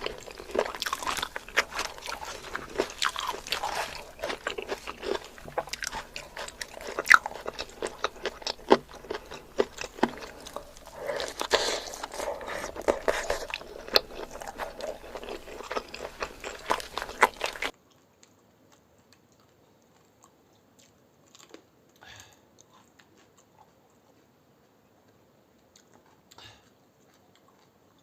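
Close-up eating sounds: a person biting and chewing food, with crunching and wet mouth clicks. The eating stops abruptly about two-thirds of the way through, leaving only a few faint clicks.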